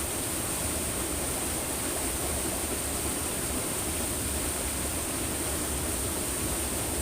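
Steady rushing of flowing stream water, unchanging throughout, with a constant thin high-pitched whine above it.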